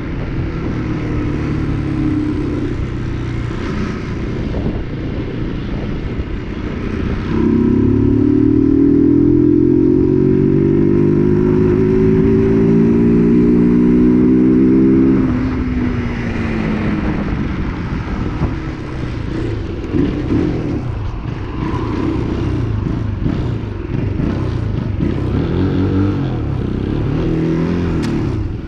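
UM RS 125 motorcycle's 125 cc engine running on the road. From about seven seconds in it pulls louder with pitch rising steadily for about eight seconds, then eases off and varies in speed.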